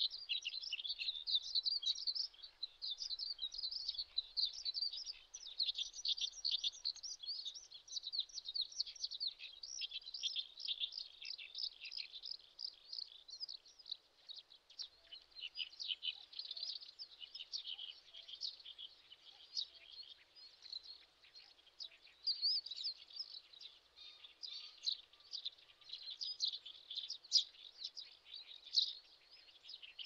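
Small birds chirping in a dense run of short, high notes that goes on without a break and thins out briefly about halfway through.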